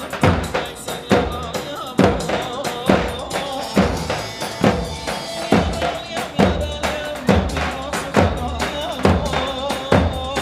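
Live Turkish halay dance music played instrumentally: an electronic keyboard melody over a heavy drum beat, with one strong bass-drum stroke a little under every second.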